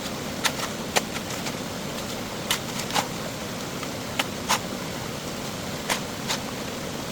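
Irregular sharp clicks and taps, about a dozen, over a steady hiss, typical of hand tools being handled against machine parts during a repair.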